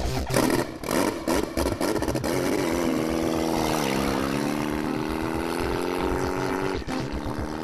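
Motorcycle engine revving hard during a rear-wheel-spinning drift. It is held at high revs with a steady note that dips a little about four seconds in and then slowly climbs.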